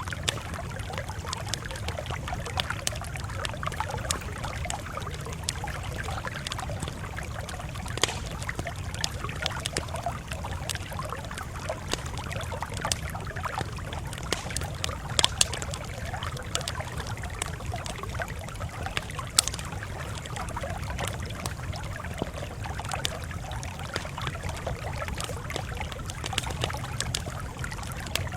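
Campfire crackling steadily, with a thick scatter of small sharp snaps and a few louder pops standing out, over a low steady rumble.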